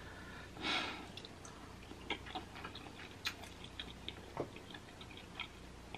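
Faint close-up chewing of a sauce-coated boiled egg: soft, irregular wet mouth clicks, with a short breath about a second in.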